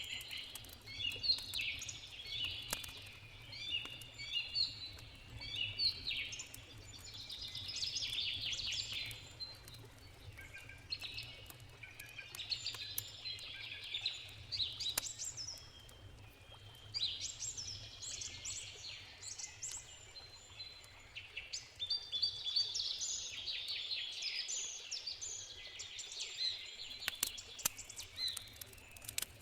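Several songbirds singing and chirping almost without pause, over the sharp, scattered crackles of a wood campfire and a low, steady rush of a river.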